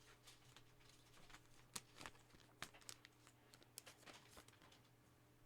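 Faint, irregular clicks and soft rustles of trading cards being handled, slid and flicked one over another.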